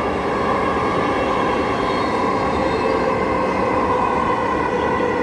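Dhaka Metro Rail train running between stations, heard from inside the carriage: a steady rumble of wheels on rail with a constant electric hum holding a few steady tones.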